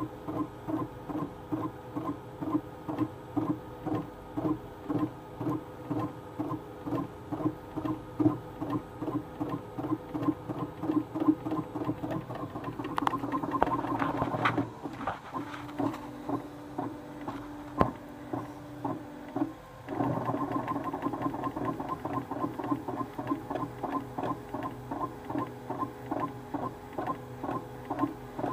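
3D printer's bowden extruder stepper motor buzzing in harsh pulses, about two a second, with a steadier hum for a few seconds past the middle. It is a horrible, scary noise from Linear Advance driving the extruder with a very high K factor (1100).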